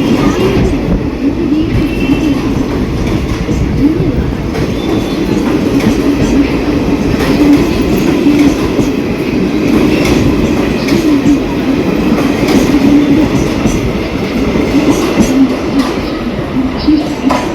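Train running past, its wheels clattering over the rail joints in a steady, loud rumble.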